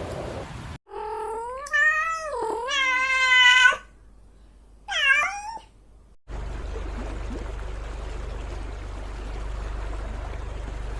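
Domestic cat meowing: one long, drawn-out meow that wavers in pitch, then a shorter meow that falls in pitch. It is followed by a steady low hum.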